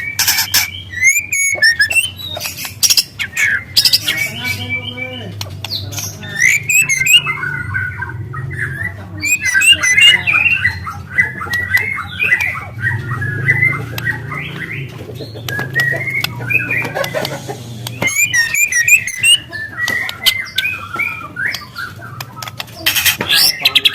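Young white-rumped shama (murai batu), just past its spotted juvenile plumage, singing a continuous rapid twittering song of varied chirps, trills and whistles, with long canary-style phrases woven in. A steady low hum runs underneath.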